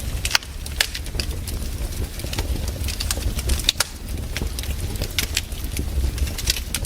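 Campfire crackling, with irregular sharp pops and snaps, a couple louder than the rest, over a steady low rumble.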